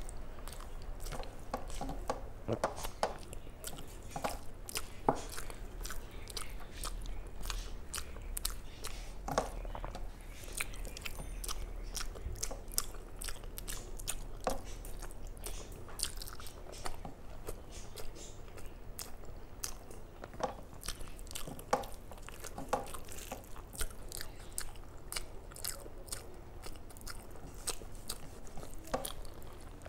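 Close-up eating sounds of a person chewing a mouthful of rice and curry: irregular wet chewing and smacking clicks all the way through, over a faint steady low hum.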